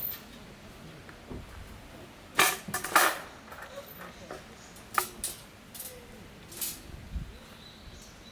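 A few sharp knocks and clacks of handled objects: a quick cluster about two and a half to three seconds in, then single ones about five and six and a half seconds in.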